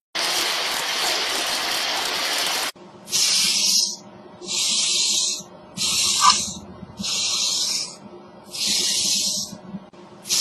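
Insects calling: a steady high buzzing hiss for about two and a half seconds, then it switches abruptly to a series of short buzzy calls, each under a second long, repeating about every 1.2 seconds.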